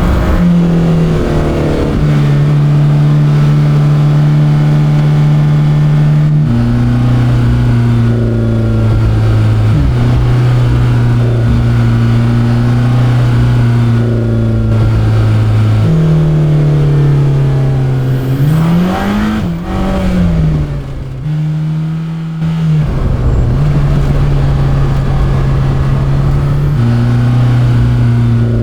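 Mercedes-AMG GT Black Series flat-plane-crank V8 running under way at a steady engine speed, its pitch stepping down and up every few seconds at gear changes. About 19 s in it revs up quickly and falls back, then briefly quietens.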